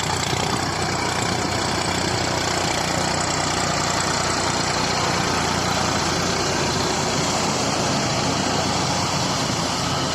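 New Holland 3230 tractor's three-cylinder diesel engine running steadily while driving a rotavator, with a constant mechanical din and no change in speed.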